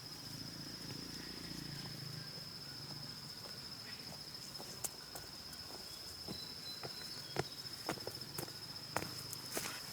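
Insects trilling steadily at a high pitch, with scattered sharp clicks and snaps that grow more frequent in the second half.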